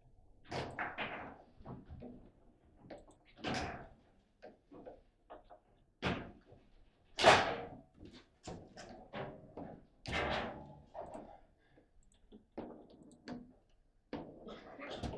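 Table football in play: an irregular run of knocks and clacks of the ball and rod-mounted players, with one much louder slam about seven seconds in.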